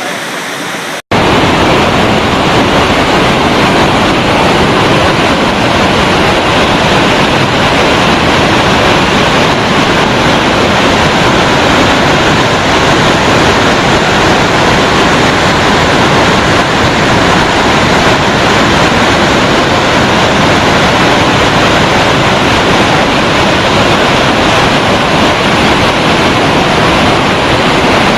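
Iguazu Falls' waterfall heard close up: a loud, steady rush of falling water. It jumps suddenly louder about a second in.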